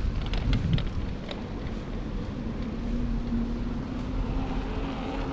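Wind buffeting the microphone of a moving bicycle, with an engine hum coming in about halfway through and rising slightly in pitch.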